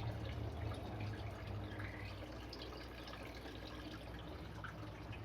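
Faint water dripping and trickling, over a steady low hum.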